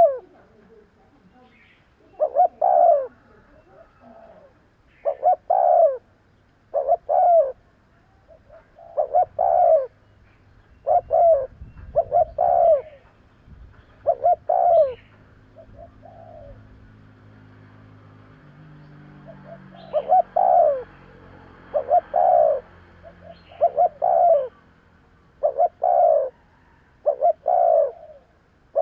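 Spotted dove cooing: short phrases of a few coos repeated about every one and a half to two seconds, with a pause of a few seconds a little past the middle.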